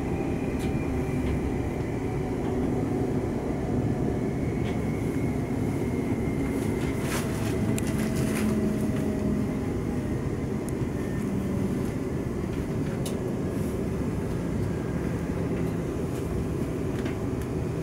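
Steady running rumble of a Siemens Class 350 Desiro electric multiple unit, heard from inside the passenger carriage. A faint whine falls slowly in pitch as the train slows on its approach to the station. A few sharp clicks come from the wheels and track, most of them about halfway through.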